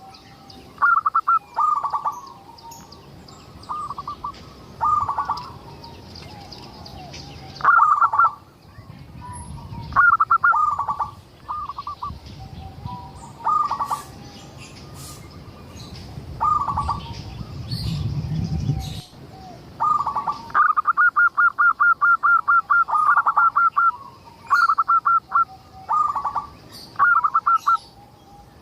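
Zebra dove (perkutut) cooing in short phrases of quick staccato notes, repeated every second or two. About two-thirds of the way through comes one longer run of rapid notes.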